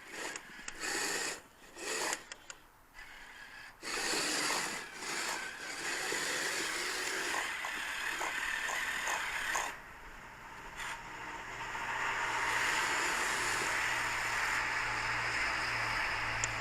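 Small electric motors and geared tracks of radio-controlled snow groomers grinding along, in short spurts of throttle at first and then running more steadily, with a low hum joining in near the end.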